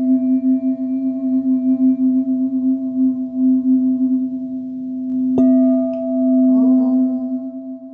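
Singing bowl ringing with a steady, pulsing low hum and fainter higher overtones. It is struck again about five seconds in, and the overtones ring out fresh.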